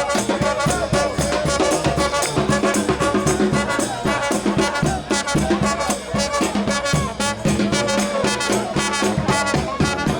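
New Orleans brass band playing a second line: trumpets and trombones over a dense, steady drum beat.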